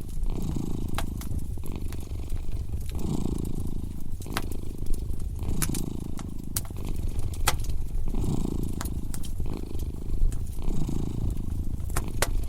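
Domestic cat purring steadily, swelling and easing with each breath about every two and a half seconds, over a fireplace fire crackling with scattered sharp pops.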